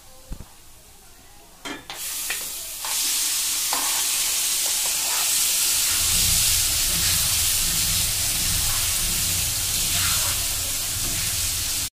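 Cooked moong dal khichdi added to hot oil with fried onions in an aluminium kadhai: after a few light knocks, a loud sizzle starts about two seconds in and keeps on while the mixture is stirred, with spoon scraping from about six seconds in.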